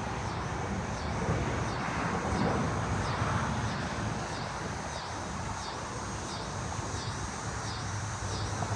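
Distant jet airliner engines, heard as a steady low rumble and hiss while the aircraft climbs out on a go-around. A high-pitched chirp repeats about twice a second throughout.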